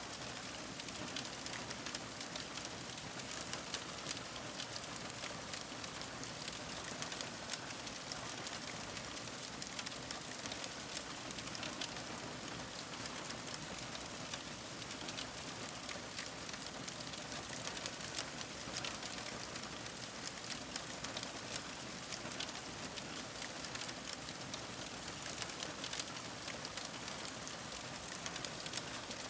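Fire crackling: a steady hiss with many small, sharp pops and snaps scattered through it.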